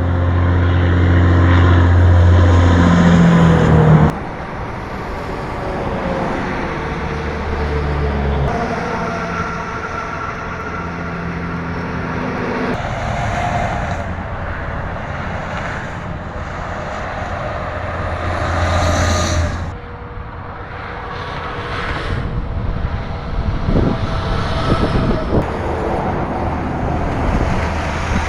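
Heavy trucks passing by on a road one after another, their diesel engines running with a deep rumble amid traffic noise. The loudest pass comes in the first four seconds, then cuts off suddenly.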